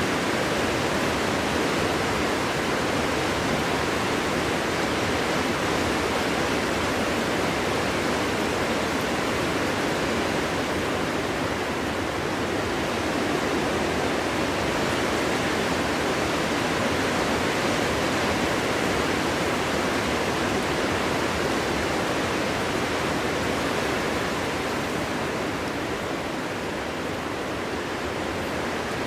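Wind blowing through a forest: a steady, even rushing noise with no howl or gusts, easing slightly near the end.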